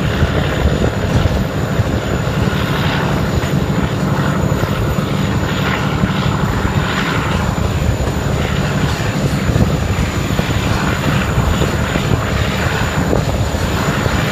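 Steady drone of a British Rail Class 17 'Clayton' diesel locomotive hauling a train at speed, mixed with wheel and rail noise, heard from on board.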